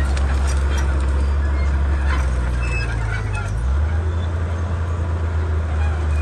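Komatsu D31P bulldozer's diesel engine running steadily under work, its note shifting a little about two-thirds of the way through, with scattered clicks and squeaks over the drone.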